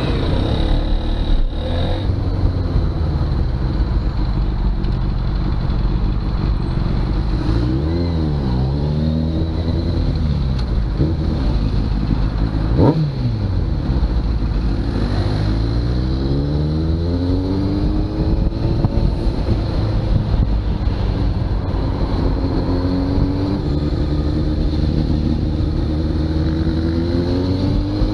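Motorcycle engine running while riding in traffic, its pitch climbing and dropping again several times as it accelerates and shifts gears, over steady wind and road noise. About 13 seconds in there is a quick sharp rise and fall in pitch.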